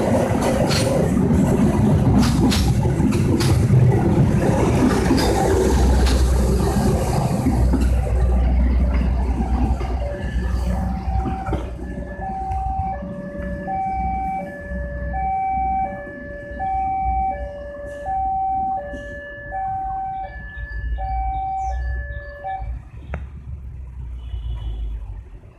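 A train running past close by, loud rumble with sharp wheel clicks, dying away about eight seconds in. Then an electronic two-tone warning signal alternates between a high and a low tone about once a second and stops near the end.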